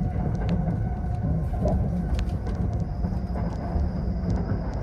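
Steady running rumble of the Limited Express Azusa, heard from inside the passenger car, with a few small clicks. A faint high whine comes in about three seconds in.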